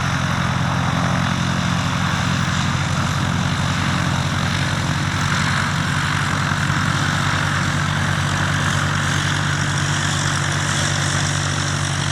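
Cessna 152's four-cylinder piston engine and propeller running steadily, at an unchanging pitch.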